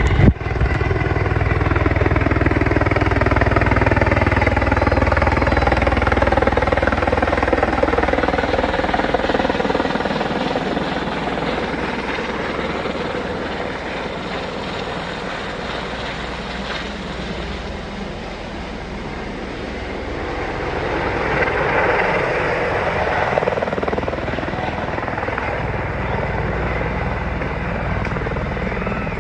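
Helicopter's rotor and engine running continuously as it comes in to land, with a tone that slowly falls over the first ten seconds, eases in the middle and swells again a little past twenty seconds in.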